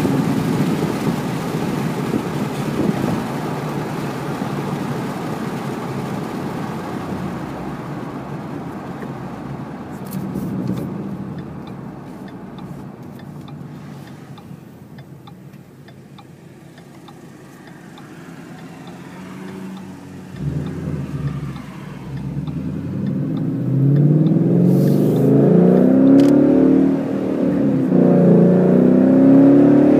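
2014 Mustang GT's 5.0-litre V8 through Roush axle-back mufflers, heard from inside the cabin. The engine note fades as the car slows, is at its quietest near the middle, then comes back loud under acceleration, its pitch climbing in several rising sweeps.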